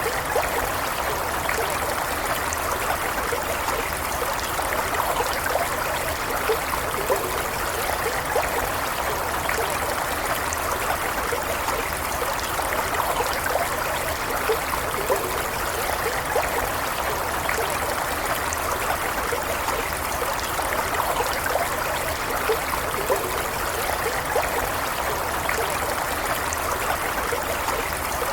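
Stream water flowing steadily over stones, a constant rush with small splashes and gurgles.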